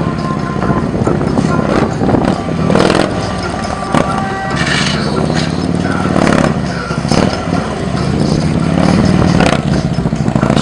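Motorcycle engine running, its revs rising and falling repeatedly in short bursts, with a few sharp clatters.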